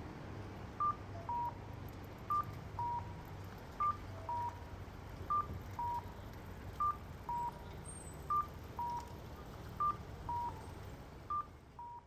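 Electronic railway level-crossing warning bell sounding two alternating tones, high then low, about one tone every three-quarters of a second, over a low background rumble; it fades out near the end.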